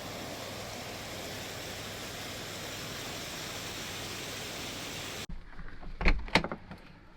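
Steady, even rushing hiss of water, cutting off suddenly about five seconds in, followed by a few sharp knocks.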